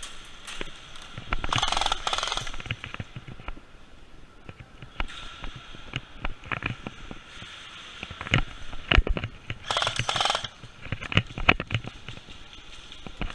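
Scattered airsoft gunfire: irregular sharp pops and clacks throughout, with two short rushing bursts about two seconds in and again around ten seconds in.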